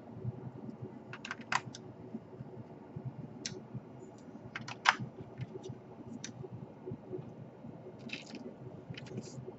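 Irregular small clicks and taps of laptop parts being handled and fitted together during reassembly, the sharpest click about five seconds in and a quick cluster of clicks near the end.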